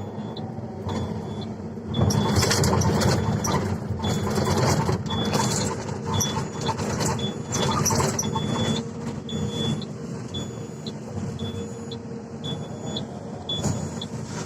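Diesel engine of heavy earthmoving machinery running steadily, with a short high-pitched beep repeating about once a second. A louder, rougher rush of noise comes from about 2 to 8 seconds in.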